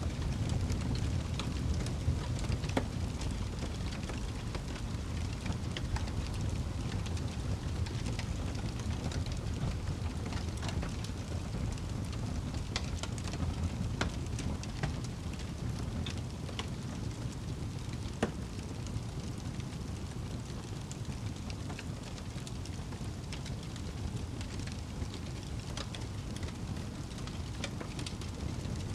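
Wood fire crackling in a fireplace: irregular sharp pops and snaps over a steady low rumble of burning flames.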